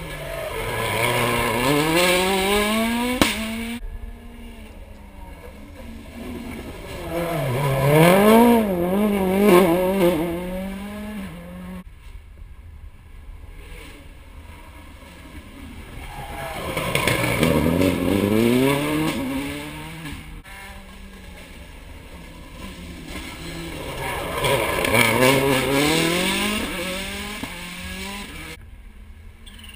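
Rally car engines at full throttle through hairpin bends. Four loud surges, each climbing in pitch through several upshifts, some ending abruptly.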